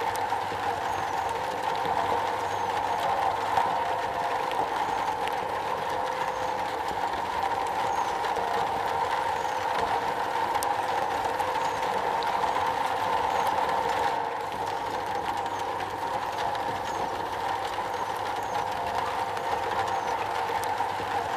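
Heavy rain drumming steadily on a metal roof, a dense even patter with no thunder.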